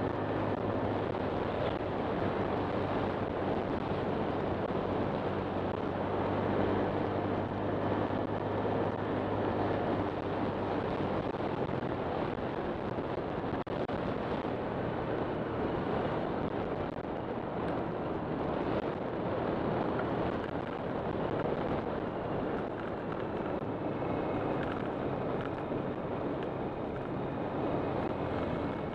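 Honda Click 125 scooter's single-cylinder engine running while riding, heard under steady wind noise on the microphone. The steady engine note fades into the wind and road noise about twelve seconds in.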